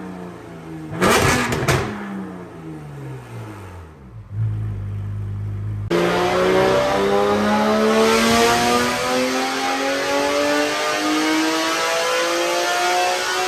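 Porsche GT4 Clubsport race car's naturally aspirated flat-six on a chassis dyno. Its revs fall away with a brief loud burst about a second in, then settle to a low idle. At about six seconds it goes to full throttle and the revs climb steadily in a power pull.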